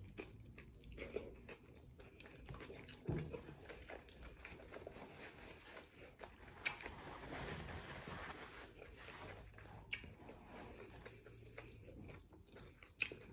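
Faint close-up mouth sounds of a person biting and chewing a chicken burrito in a soft flour tortilla: small wet smacks and clicks. A paper napkin rustles briefly partway through.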